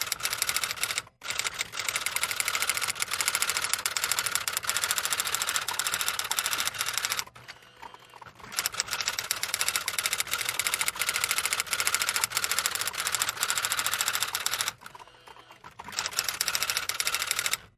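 Fast, continuous mechanical clicking or clattering in long runs, breaking off briefly three times.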